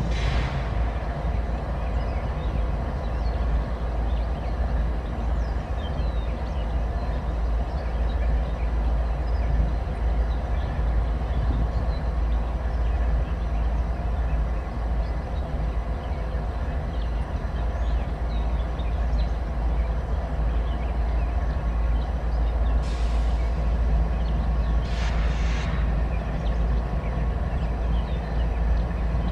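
Freight train cars rolling past at steady speed: a continuous deep rumble of wheels on rail with a wash of rattle, and two short hissy bursts near the end.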